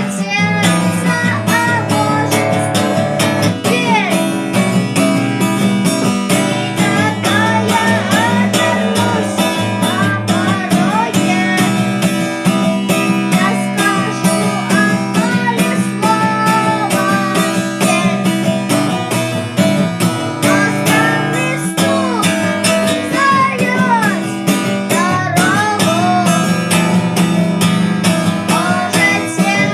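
Guitar music: an acoustic guitar strummed in a steady rhythm, with a gliding melody line played over it.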